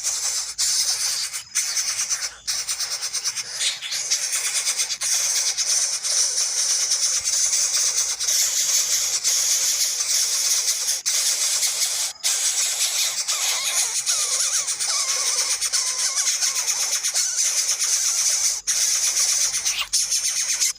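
Shrill, continuous high-pitched calling of nestling birds, with a few brief breaks and some wavering lower chirps in the middle.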